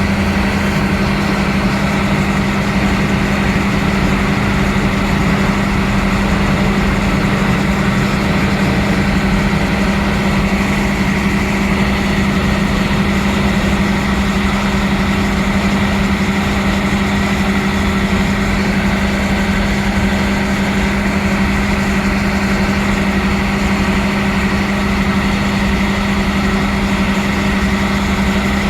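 Steady mechanical drone of a passenger train's engine running, with a strong, even low hum and no change in pitch.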